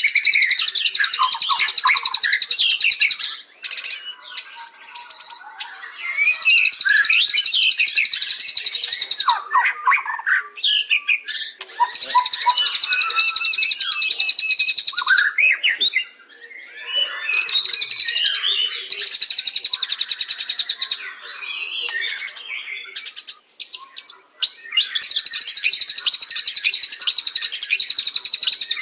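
White-rumped shama (murai batu) singing: blocks of rapid, high-pitched chattering trills, each about three seconds long, come five times, with varied lower whistled phrases between them.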